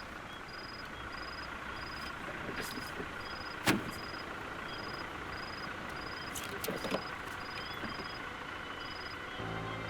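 Faint outdoor ambience with a short high chirp repeating about three times every two seconds. A sharp click comes a little before four seconds in, and a few light clicks follow around seven seconds.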